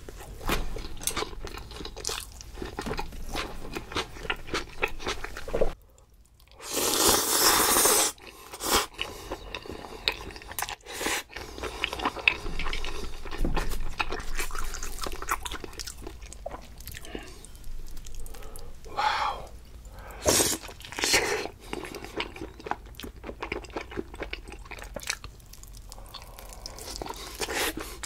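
Close-miked eating sounds: biting and chewing food, with frequent crunchy bites. A brief pause about six seconds in is followed by a louder stretch of chewing noise.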